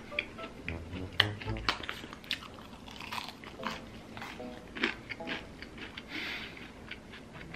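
Close-up chewing and crunching of fried chicken dipped in sauce, with many short sharp crunches and wet mouth sounds.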